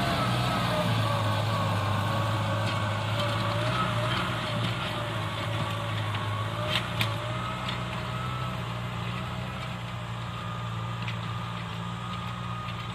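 Tractor engine running steadily, with a whine that wavers slightly in pitch over the low engine hum. A couple of sharp knocks come about halfway through, and the sound eases off gradually toward the end.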